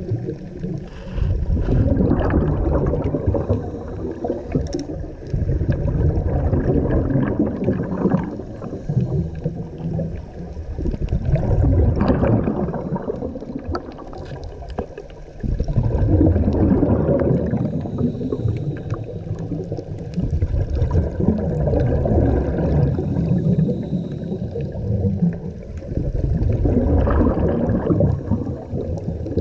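Scuba diver breathing underwater through a regulator, exhaled bubbles gurgling in loud swells every four to five seconds.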